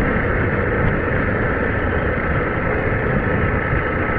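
Motorcycle cruising at a steady speed: engine and wind rushing on the rider's microphone, with a faint steady whine.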